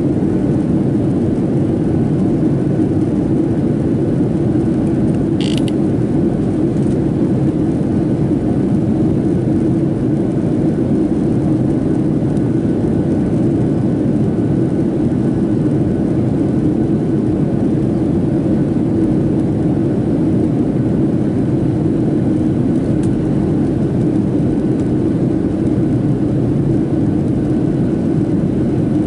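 Steady cabin noise of a Boeing 737-700 in flight: an even rumble of airflow and its CFM56-7B jet engines, unchanging throughout. A brief faint tick about five and a half seconds in.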